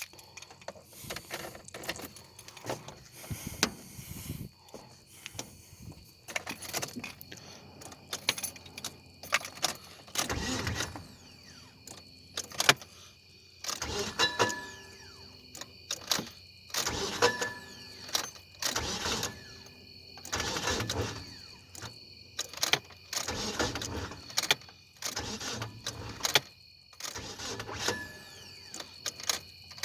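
1999 Nissan Altima's 2.4-litre four-cylinder engine running with a bad rod knock, a worn connecting-rod bearing, coming in repeated loud surges every second or two.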